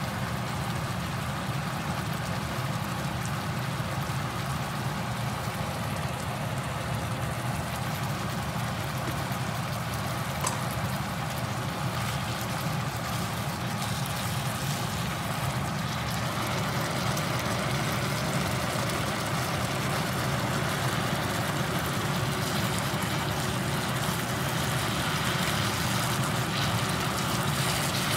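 Kimchi sizzling as it is stir-fried in a nonstick wok, over a steady low hum; the sizzling gets a little louder about halfway through.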